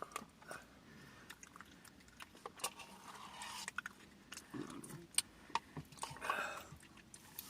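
Faint close-up eating sounds: chewing, with scattered light clicks.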